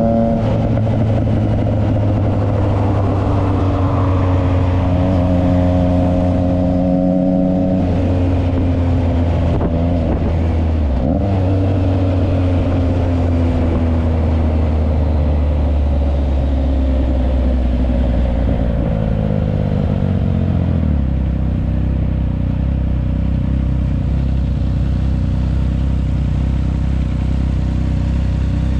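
Triumph Trident 660's inline three-cylinder engine through a Yoshimura exhaust, running under way. The note holds fairly steady, steps down in pitch a couple of times and falls away around two-thirds of the way through as the bike slows.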